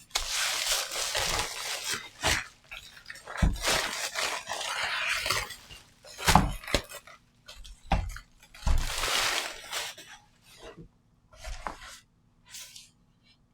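Handling of a metal power-supply case as it is opened: irregular scraping and rustling with several sharp clacks and knocks.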